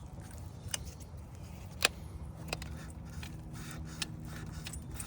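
A hose hook tool prying and wiggling a rubber radiator hose off its plastic fitting gives a few sharp clicks and light scrapes. The sharpest click comes about two seconds in, over a steady low hum.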